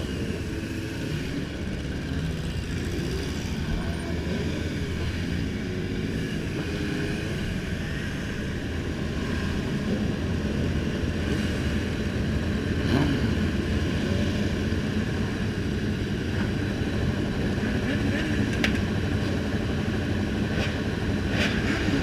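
Several motorcycle engines running together in a continuous low drone, with some short pitch glides early on.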